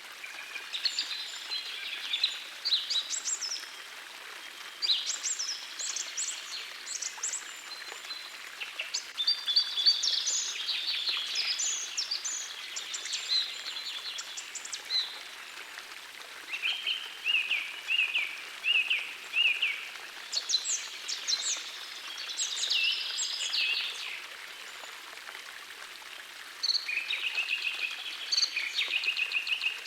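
Songbirds singing in phrases every few seconds, one of them a run of quick repeated notes, over the steady wash of a gentle forest stream.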